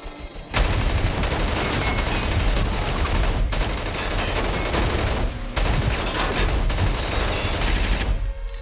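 Sustained rapid automatic gunfire in a film shootout mix. It starts about half a second in, with two brief breaks, and stops shortly before the end.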